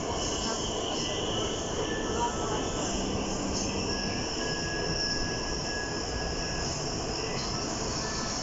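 Santiago Metro Line 4A train running between stations, heard from inside the car: a steady rumble and hiss of wheels on rails, with a faint high wheel squeal held for a couple of seconds near the middle.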